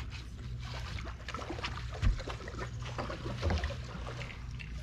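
A boat's motor humming steadily, with scattered knocks and clicks on the hull and a sharper thump about two seconds in.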